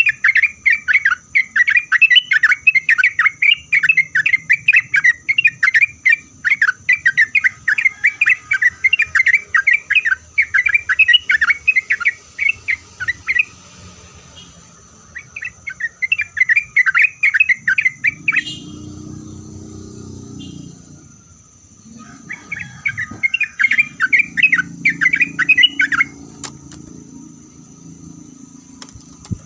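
Yellow-vented bulbul singing a fast, chattering song in three long bouts, with short pauses between them.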